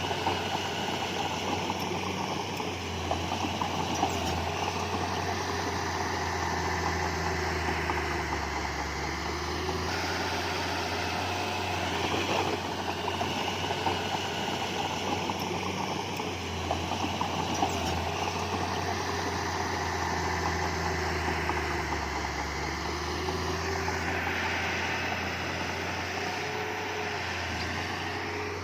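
Heavy construction machine's diesel engine running steadily, its note rising and falling slowly a few times as it works.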